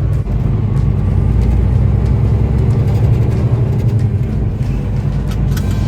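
Semi-truck diesel engine running as a steady low drone.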